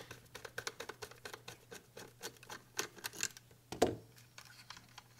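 Small clicks and scratches of a screwdriver turning out screws from a circuit board in its plastic case, with one louder knock just before four seconds in.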